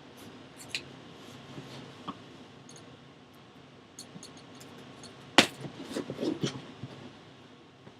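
Handling of a sealed trading-card box: scattered small clicks, a sharp tap about five seconds in, then a brief burst of scraping and rustling as the seal is worked open.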